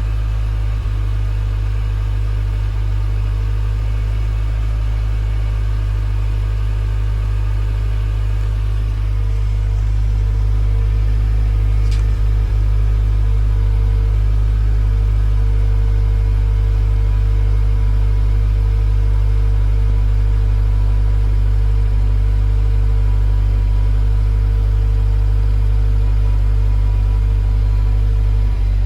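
Subaru WRX S4's turbocharged FA20 flat-four idling after a cold start, heard through its stock exhaust and muffler. It is a steady low rumble that grows a little louder about ten seconds in.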